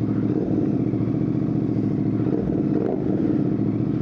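Royal Enfield Bear 650's 648 cc parallel-twin engine idling steadily through an aftermarket Red Rooster Performance straight-pipe exhaust.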